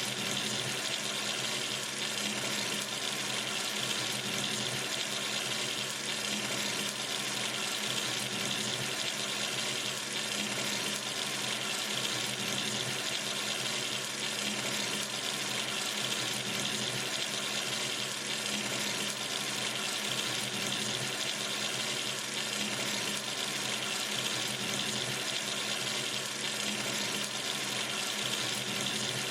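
Water running steadily from a sink tap into the basin, an even unbroken rush with a faint low hum underneath.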